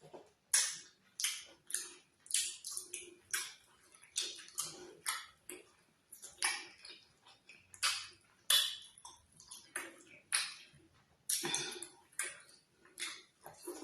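Close-miked mouth sounds of eating fufu with ogbono soup: short, wet chewing and slurping bursts, irregular, about one or two a second.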